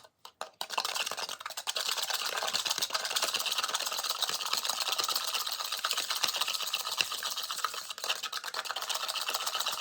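Eggs being beaten by hand in a small bowl: a fast, steady clatter of the utensil against the bowl, starting just under a second in.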